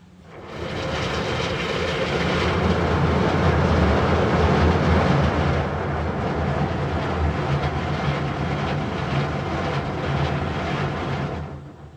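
D&S IQ soft-touch automatic car wash working over the car, heard from inside it: a loud, steady mechanical rumble with spray and brush noise. It starts about half a second in and cuts off shortly before the end.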